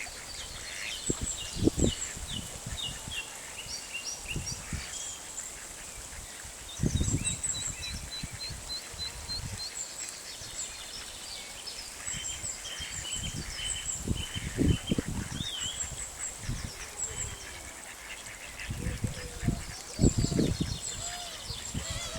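Ducks and swans calling on a pond: scattered honks and quacks, with frequent high peeping chirps. Several louder low bursts come and go, the strongest near the end.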